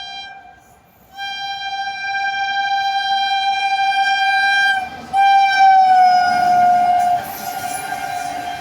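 Freight train's locomotive horn sounding in long blasts, with a short break about a second in and another near five seconds; the pitch falls as the locomotive passes, and then the rush and rumble of the wagons going through takes over.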